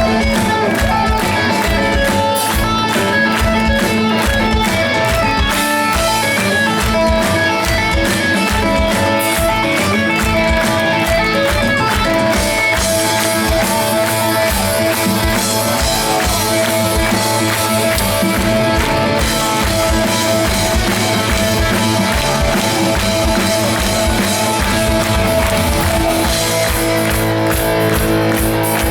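Live rock band playing an instrumental break with no vocals: guitar and held pitched notes over a drum kit keeping a steady beat.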